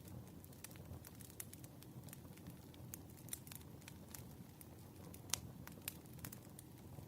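Wood fire burning, with a low, steady rumble under frequent irregular crackles and pops, one sharper pop about five seconds in.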